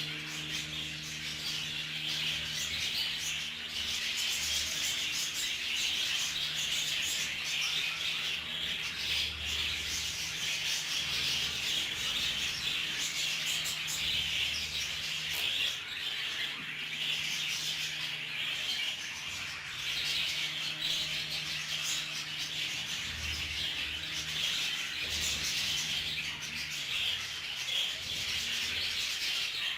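Budgerigars chattering and chirping continuously, with a low hum that comes and goes underneath.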